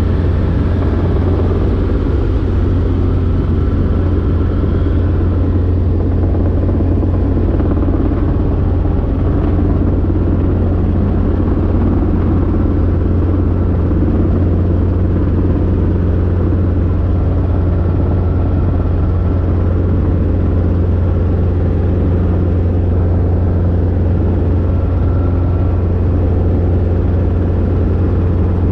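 Robinson R22 helicopter in flight: the steady, loud drone of its piston engine and two-blade rotor, with a deep hum underneath that holds even throughout.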